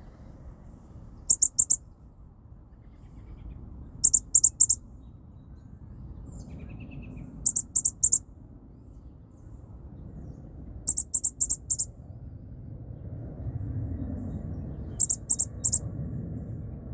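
Baby bird chirping: quick runs of three or four very high, sharp peeps, repeated five times at intervals of three to four seconds, over a low rumbling background.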